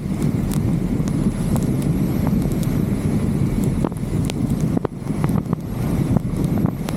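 Wind buffeting the microphone of a camera mounted on a vehicle's roof, over a steady low rumble, with scattered sharp ticks throughout.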